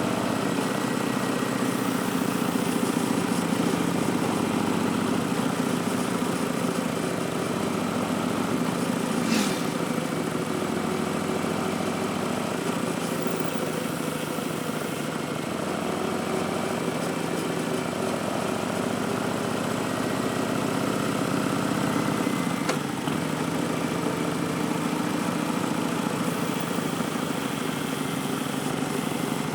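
Harley-Davidson Street Bob's Milwaukee-Eight V-twin running through Vance & Hines Twin Slash slip-on mufflers, a steady engine note whose pitch drifts slowly up and down. A short sharp click cuts through about nine seconds in and again about twenty-two seconds in.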